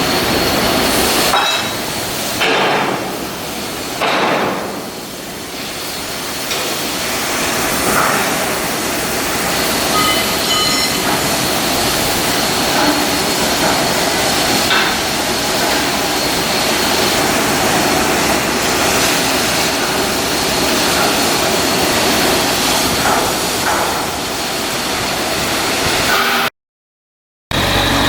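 Shipyard steel-work noise: a dense, steady hiss with scattered metal knocks and hammer blows.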